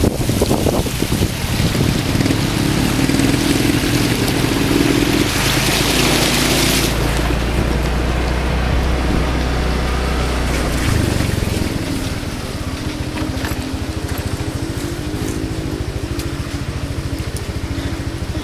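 Motor vehicle engine running with a steady low hum, its pitch shifting about eleven seconds in. Over the first seven seconds a loud rushing hiss lies on top of it and then stops abruptly.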